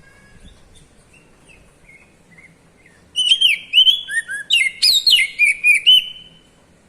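Oriental magpie-robin (kacer) singing: a few soft chirps, then about three seconds in a loud burst of rapid, sweeping notes that lasts about three seconds and breaks off.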